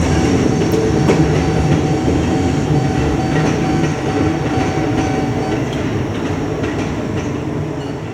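A train passing close by in a loud rumble, its wheels clicking over the rail joints, with a steady whine that stops about five and a half seconds in. The sound fades toward the end as the train moves away.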